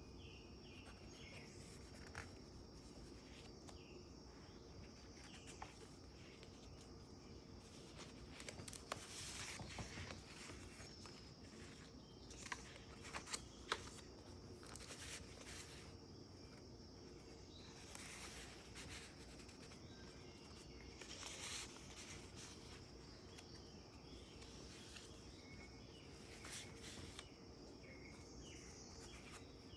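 Faint paper rustling and soft handling sounds as the pages of a handmade junk journal are turned, in a few short clusters, over a faint steady high tone.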